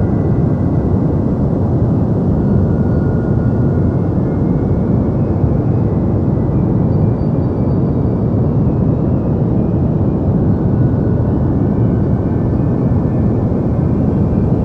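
Steady deep white noise: a low, even rush of sound that never changes, with faint thin high tones drifting in and out.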